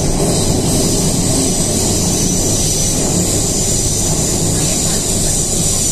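Steady running noise heard inside an MTR K-stock train car moving at speed: a constant low rumble of wheels on rail with a steady high hiss over it.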